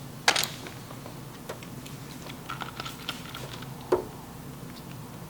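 Sporadic clicks and knocks of dent-repair tools being handled on the panel. The sharpest comes about a third of a second in, and a ringing knock follows near four seconds, with a few faint ticks between.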